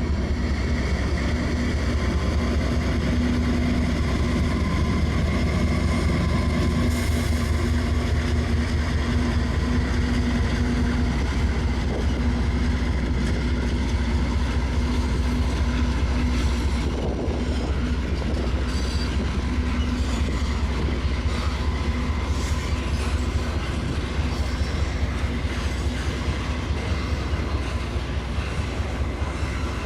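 Diesel freight train running close by: a steady low rumble with the locomotive's engine hum, a little quieter from about halfway.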